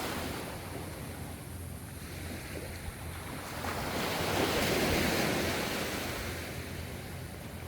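Ocean waves washing onto the shore, one swell building about halfway through and fading again, over a steady low rumble of surf.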